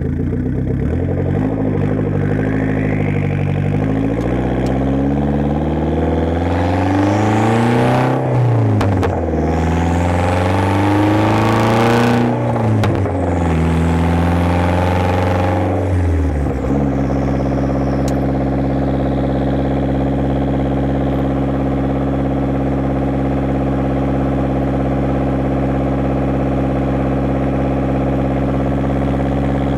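1990 Saab 900 Turbo's turbocharged four-cylinder engine through a straight-pipe exhaust, pulling away and running up and down through the revs several times, then settling into a steady, even note about halfway through.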